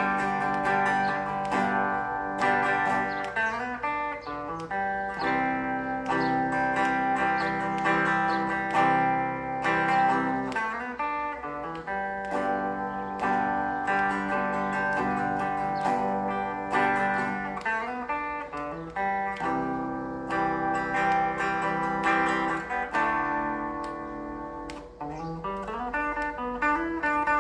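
Electric guitar played with a clean tone: a picked melody of quick notes over ringing lower notes and chord changes.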